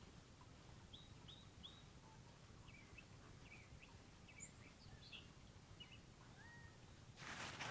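Near silence with faint, scattered bird chirps and one short whistled note. Near the end, a louder rustling noise starts abruptly.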